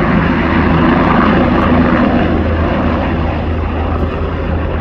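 Helicopter engine and rotor running loud and steady, easing off slightly toward the end.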